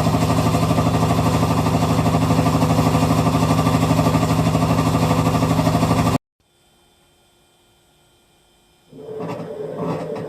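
Hitachi Beat Wash Slim washing machine running with a loud, rapid, rhythmic rattling (gara-gara): an abnormal noise that the owner takes as a sign the machine is nearing the end of its life. The noise cuts off suddenly about six seconds in. After a few seconds of faint hum, irregular clattering starts near the end.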